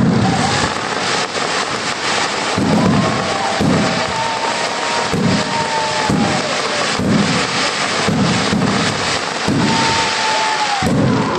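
Fireworks display: continuous crackling and popping of bursting shells, with deep booms about once a second throughout.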